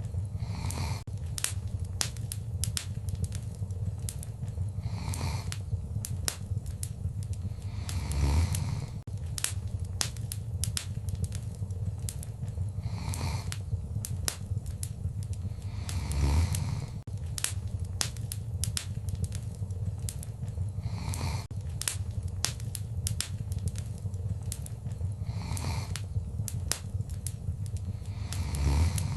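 Wood fire crackling, with frequent sharp pops over a steady low roar. A soft whooshing swell comes every few seconds, and a stronger one about every eight seconds.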